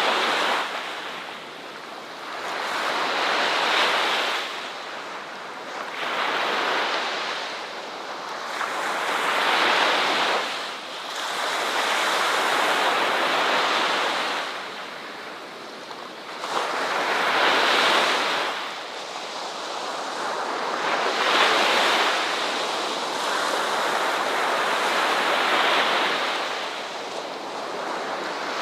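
Ocean waves breaking and washing on a shore, each wave swelling and falling away every three to four seconds.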